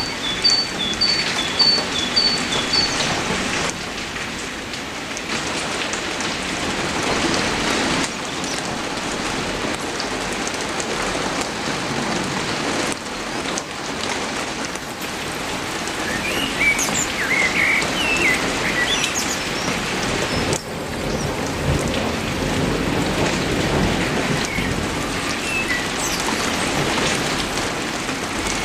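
Heavy rain falling steadily. A bird gives a quick run of about five high chirps in the first few seconds, and more bird calls come about two-thirds of the way through.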